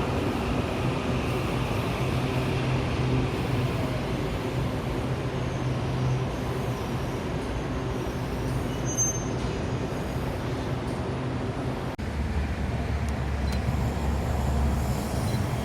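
Steady rumble of a Taiwan Railway EMU800 electric commuter train running, mixed with road traffic noise. About twelve seconds in the sound cuts abruptly to a deeper, steady rumble.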